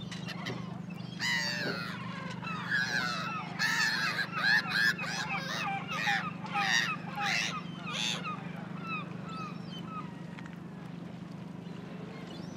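A flurry of short, honk-like bird calls, several overlapping and bending up and down in pitch, over a steady low hum; the calls thin out and stop a few seconds before the end.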